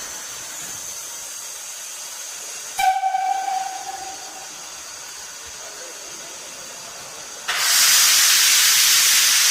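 Steam locomotive hissing steadily at rest. About three seconds in, a sharp metallic clank rings briefly and fades, and near the end a much louder rush of escaping steam starts and holds.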